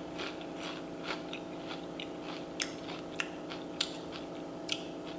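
Person chewing a mouthful of food close to the microphone: soft, irregular wet mouth clicks and smacks about every half second, over a steady low hum.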